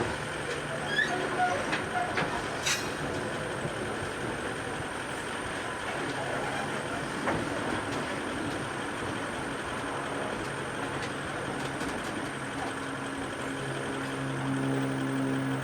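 Grain train hopper wagons rolling past on steel wheels, a steady rumble with a few sharp clicks over the rail in the first seconds. Toward the end a steady engine hum from an idling vehicle grows louder.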